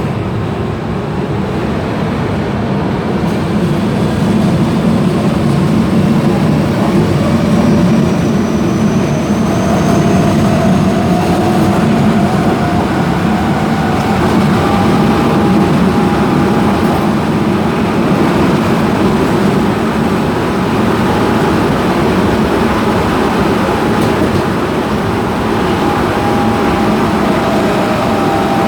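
Osaka Metro 22 series subway train's Mitsubishi GTO VVVF inverter and traction motors whining as it picks up speed, over a steady rumble of running gear. The thin tones rise in pitch through the middle and settle toward the end.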